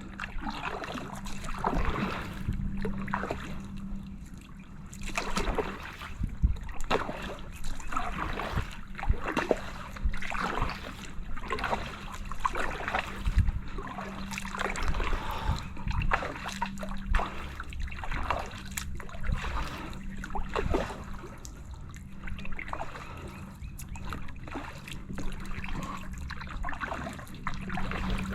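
Kayak paddle strokes, the blades dipping and splashing into calm water with dripping and trickling between strokes, about one stroke every second or so.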